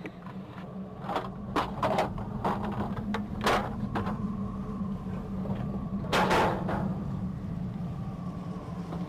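Old garage door parts and scrap being thrown out of a work truck: a run of sharp metal clanks and crashes, with one bigger, longer crash about six seconds in, over a steady low hum.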